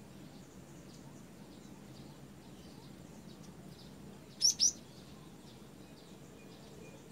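Cinereous tit (gelatik batu) calling: two sharp, high notes in quick succession about four and a half seconds in, over faint scattered chirps of other small birds.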